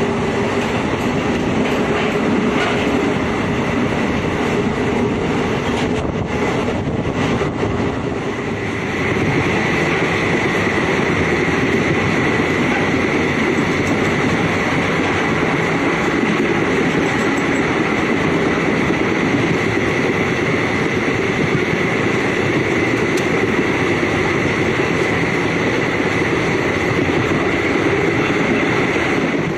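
DEMU (diesel-electric multiple unit) train running at speed: a steady loud rush of wheels on rail and running noise, heard at an open coach door. A thin steady high tone comes in about nine seconds in.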